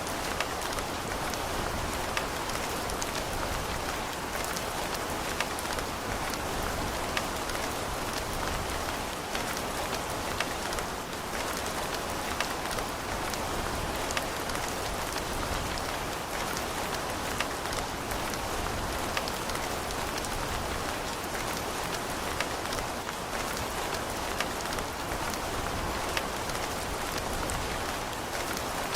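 Steady rain falling on a surface, an even hiss with many close, distinct drop patters.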